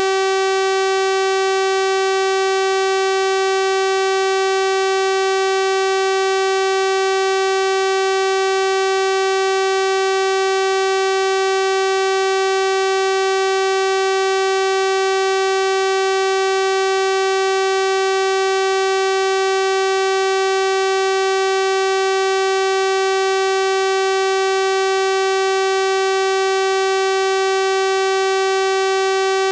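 Synthesized 384 Hz sawtooth-wave tone, held steady and unchanging: a bright, buzzy drone rich in harmonics.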